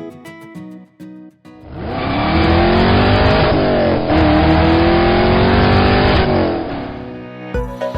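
A car engine accelerating hard, its pitch climbing, dropping briefly at a gear change about halfway, then climbing again before it fades out.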